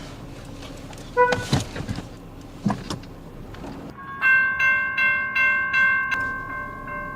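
Railway level crossing warning bell ringing, struck about twice a second, starting about four seconds in after a few quieter knocks.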